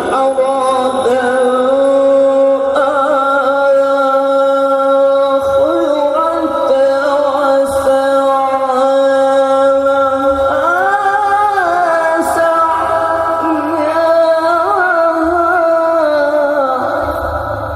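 A male Quran reciter's voice holding one long melismatic note of tilawah, with ornamented turns of pitch about eleven and fifteen seconds in. The note fades near the end.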